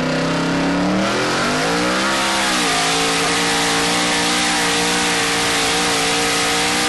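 Twin-turbocharged 427 Dart-block LSX V8 in a Cadillac Escalade pulling at full throttle: the revs climb steeply from about a second in, dip at a gear change about two and a half seconds in, then hold high and steady, with a loud hiss over the engine note.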